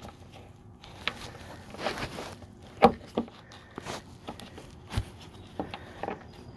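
Irregular clicks and knocks of hand tools against metal, the loudest a sharp knock about three seconds in and another about five seconds in.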